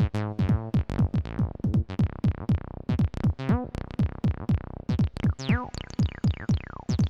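Electronic dance pattern from a Roland T-8 beat machine: fast, even drum-machine hits, many dropping in pitch, over a pitched bass line whose notes bend.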